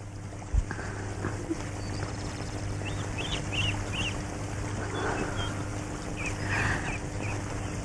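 Birds chirping, a few short calls in two small groups, over a steady low hum and hiss.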